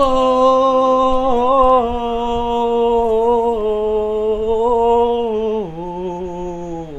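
A man's voice holding one long sung note on the word "Kumo", wavering slightly, then dropping to a lower pitch about five and a half seconds in before it breaks off.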